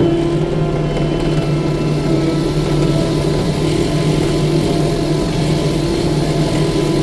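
Diesel engine of a 6-ton tracked skid steer running steadily at a constant speed.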